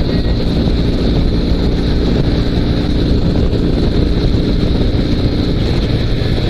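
Dnepr 16 sidecar motorcycle's flat-twin boxer engine running steadily at cruising speed, with wind noise over the microphone.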